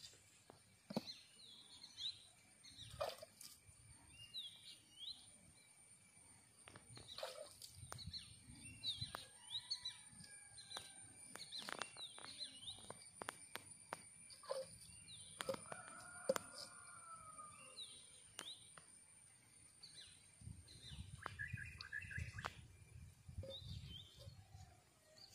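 Faint birds chirping outdoors: short high chirps repeating every second or so, with a few lower whistled notes. Scattered clicks and a low rumble now and then sit under them.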